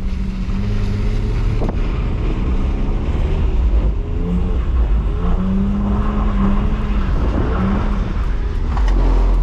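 BMW E46 320i's M54B22 2.2-litre straight-six engine running hard, heard from inside the car, its pitch dropping and picking up again several times as the throttle is worked, over a steady rush of tyre and road noise.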